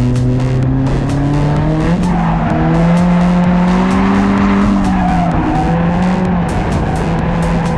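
Drift car engine running at high revs, its pitch rising and falling as the throttle is worked, with the tires squealing and skidding through the middle of the run.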